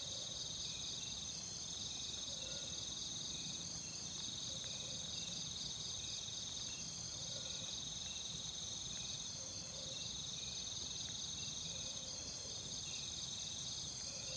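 Steady night chorus of crickets and other insects, with a faint snore-like sound coming back about every two seconds from a tin can rigged as a turning rattle that keeps spinning round.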